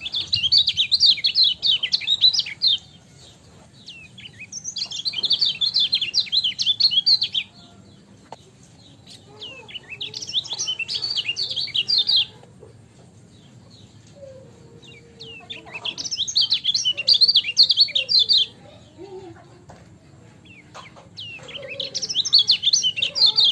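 Kecial kuning (a yellow white-eye) singing in repeated bouts of fast, high twittering chirps. Each bout lasts about three seconds, with short pauses between, five times in all.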